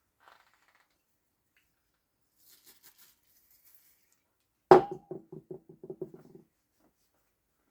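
A small hard part, such as a gearbox part or tool, dropped onto the workbench: one sharp hit with a ringing note about two-thirds of the way in, then a rattle of about ten quick, fading bounces before it settles.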